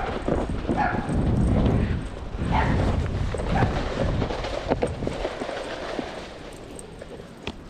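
Snowboard sliding over snow while two huskies run ahead pulling it, with the uneven beat of their footfalls over the board's rumble. It dies down from about six seconds in.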